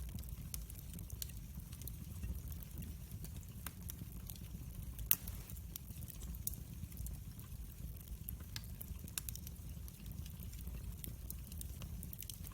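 Wood fire burning with a steady low rumble and scattered crackles, one louder pop about five seconds in.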